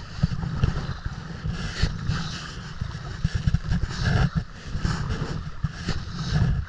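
Wind rumbling on the microphone, with water splashing around a kayak.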